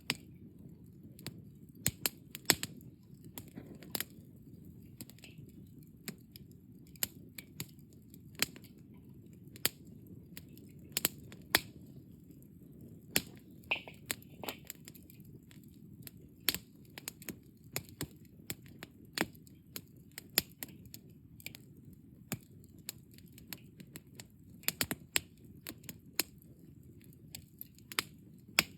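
Wood fire burned down to embers, crackling with irregular sharp pops, several a second, over a low steady rustle of flame.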